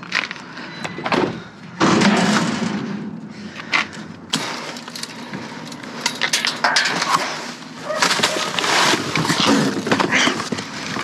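Rummaging through trash in a dumpster: irregular rustling and scraping with repeated knocks and clatters of objects being moved, with louder bursts about two seconds in, just after four seconds in, and again from about eight seconds in.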